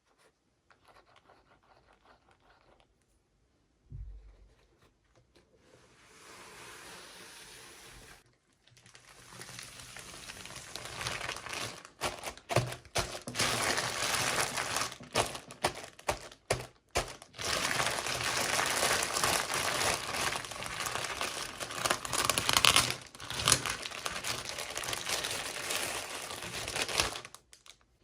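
Toy packaging crinkling and tearing as it is opened by hand: faint handling at first, then loud, continuous crinkling with sharp crackles that stops shortly before the end.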